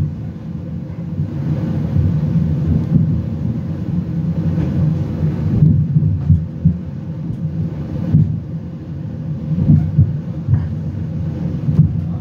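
Low, uneven rumble of a Talgo passenger train rolling along the track, heard from inside the carriage, with a few faint clicks.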